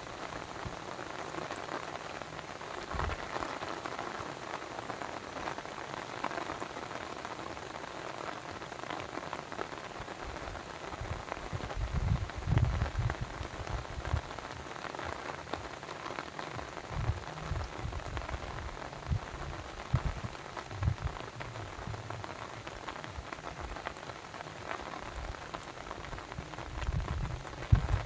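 Steady splashing, hissing water noise with no let-up, joined now and then by short low rumbling bursts in the second half.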